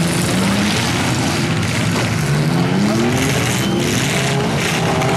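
Demolition derby car engines revving, their pitch rising and falling repeatedly as the cars accelerate and back off, over a constant din.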